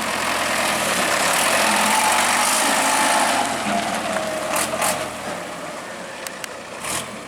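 Heavy machinery engine running hard under load, swelling louder for the first few seconds and then easing off, with a few sharp knocks in the second half.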